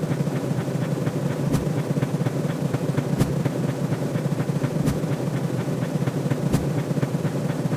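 A steady, dense rumbling sound effect with a faint click about every second and a half.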